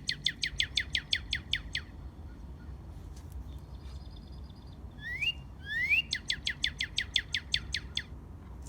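Northern cardinal singing. A fast run of short, down-slurred whistled notes, then after a pause two rising whistles lead into another quick run of falling notes.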